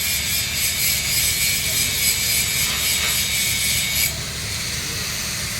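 Arc welding on a steel pipe joint: a steady hiss from the arc that cuts off suddenly about four seconds in, over a steady low hum that carries on.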